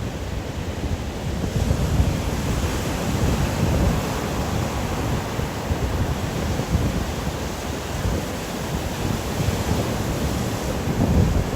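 Wind and rain in a storm: a dense, steady roar with gusty low rumbling swells, and a hiss that thickens a couple of seconds in.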